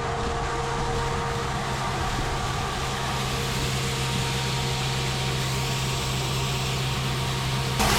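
Grain-bin unloading equipment running steadily: a constant machine hum with an even hiss of shelled corn pouring into the bin over the spreader.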